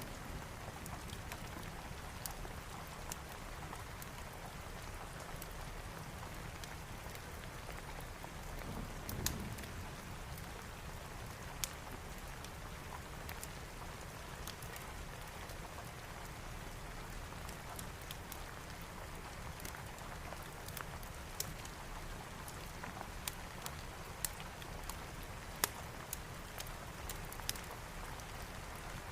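Steady heavy rain, with sharp crackles and pops of a wood fire scattered through it and a soft low rumble about nine seconds in.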